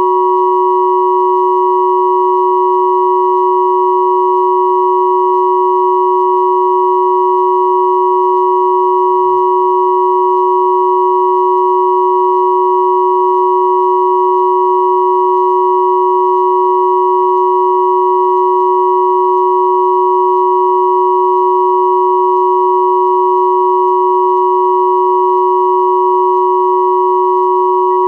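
Steady combined pure sine tones at 369, 963 and 1111 Hz sounding together without change: a low tone under two close higher tones.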